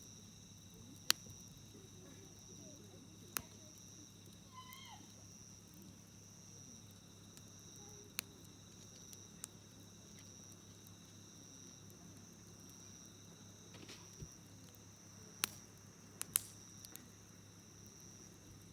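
Wood fire crackling with scattered sharp pops, the loudest about a second in and three close together near the end. Under it runs a steady high chirring of crickets.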